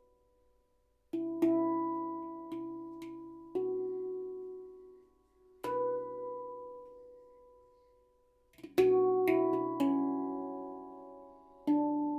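Stainless steel handpan, a Baopan B Ursa Minor, played by hand in a slow melody. After about a second of near silence, single notes are struck a second or two apart, each ringing on and slowly fading. A quicker run of several notes comes about two-thirds of the way through.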